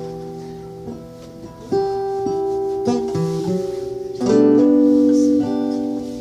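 Acoustic guitar strumming chords and letting them ring, with a louder chord struck about four seconds in.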